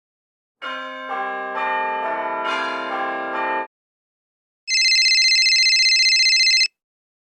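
Bells ringing. First comes about three seconds of overlapping ringing notes at different pitches. After a short gap there are about two seconds of one louder, steady, rapidly trilling ring.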